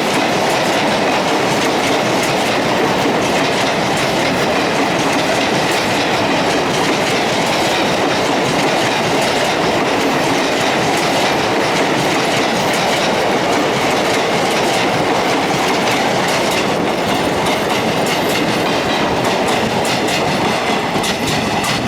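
Empty Indian Railways second-class passenger coaches rolling past, their wheels clattering over the rail joints in a steady clickety-clack with a continuous rumble.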